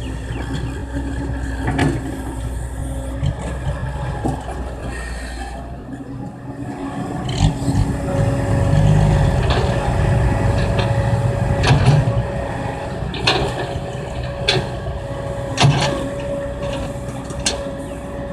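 Kobelco crawler excavator at work: its diesel engine runs and comes under more load about seven seconds in. A steady high whine joins about eight seconds in, and there are several sharp metallic clanks.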